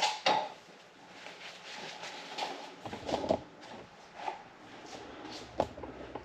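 Scattered light clicks, taps and rustling of hand work on an engine's cylinder head as a camshaft oil seal is pressed flush into its housing.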